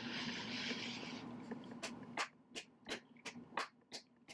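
Mouth sounds of someone chewing a soft preserved duck egg: a brief hissing breath, then a series of about eight short clicks spread unevenly over a couple of seconds.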